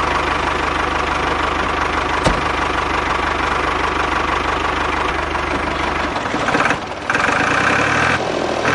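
An engine running steadily with fast, even low knocking, like a diesel idling. It changes tone about six seconds in.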